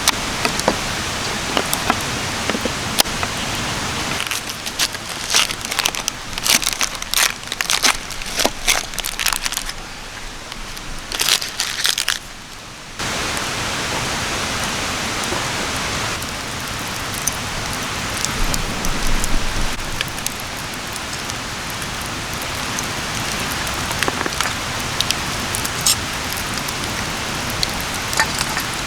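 Wood campfire crackling, with scattered sharp pops over a steady hiss. The pops are thickest in the first half. The sound drops away briefly about ten to thirteen seconds in, then the hiss returns, steadier and with fewer pops.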